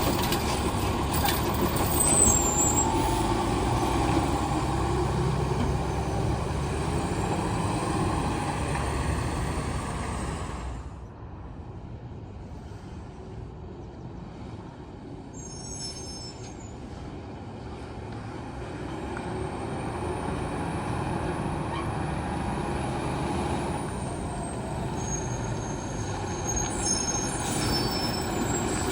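Heil STARR side-loader recycling truck running. It is loud at first, turns quieter about eleven seconds in, and builds back up from about twenty seconds. A few short high-pitched chirps come and go over it.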